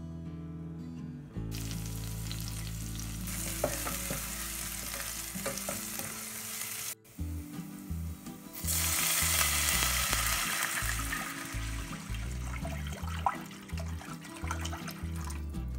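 Chopped garlic and a chilli sizzling as they fry in oil in a stainless steel pot. The sizzle starts about a second in and gets louder about nine seconds in.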